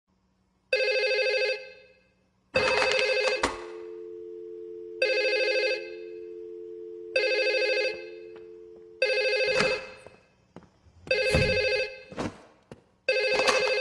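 Telephone ringing: a trilling ring of under a second, repeated seven times about every two seconds, with a steady two-note tone sounding underneath through the middle.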